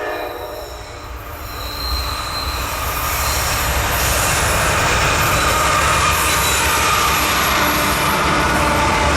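Norfolk Southern freight train passing close by. A horn blast dies away just after the start, then the rumble and clatter of the locomotive and cars build over the first three seconds and hold steady and loud, with some high wheel squeal.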